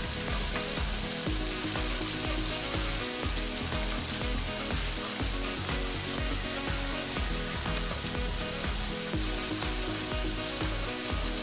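Crushed garlic sizzling in a few spoonfuls of hot frying oil in a pan as it is sautéed, a steady crackling hiss. Background music plays underneath.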